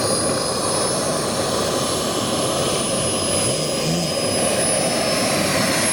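Radio-controlled model aircraft in flight, its engine a steady drone with a constant high whine.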